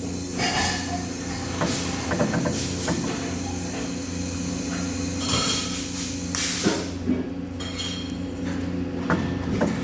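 Industrial workshop noise: a steady electrical hum with short hissing bursts and a few metallic knocks.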